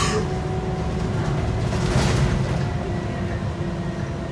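Scania K230UB city bus running at a steady speed: its 8.9-litre five-cylinder Scania DC9 diesel gives a low rumble, with a steady whine over it and a little road noise.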